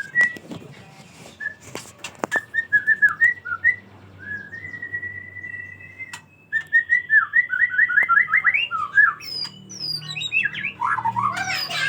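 Pet white-rumped shama (murai batu) singing: varied whistled phrases, a held note about five seconds in, then a quick run of notes and more complex, louder phrases near the end. A couple of sharp clicks sound about two seconds in.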